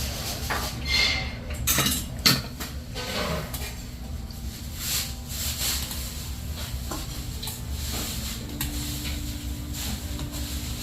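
Dishes and cutlery clinking: scattered knocks and clinks of tableware, one sharper knock about two seconds in, over a steady low background hum.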